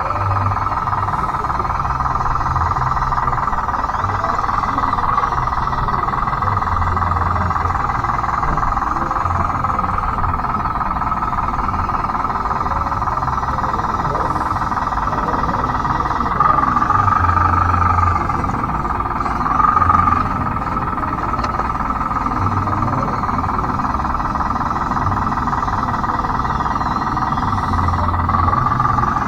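Converted Bruder D5 RC bulldozer's electric drive motors and gearboxes whining steadily, with a low hum that pulses on and off. The whine swells louder about two-thirds of the way through and again near the end.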